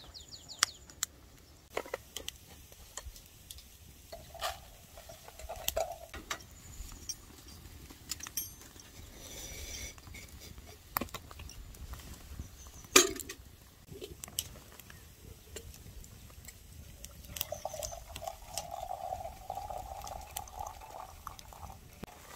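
Camp cookware and utensils being handled: scattered clinks and taps, with liquid sounds.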